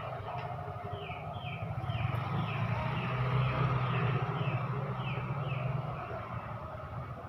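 A bird calling a quick run of short falling chirps, about two a second, over a steady low hum.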